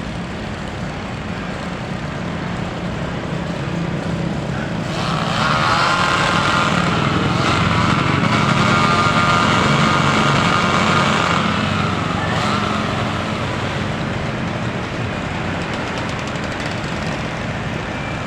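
Motor engines running steadily, with a higher-pitched engine whine growing louder about five seconds in and fading away some seven seconds later.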